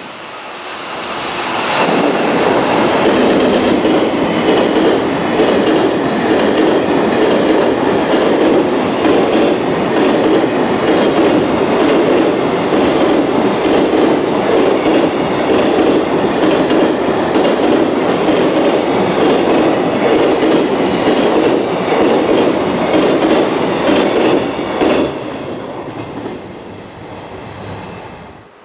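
Electric-locomotive-hauled freight train of container flatcars passing close by, with a steady rumble and rapid clickety-clack of wheels over rail joints. It swells quickly about two seconds in, stays loud, and dies away near the end as the last wagons go by.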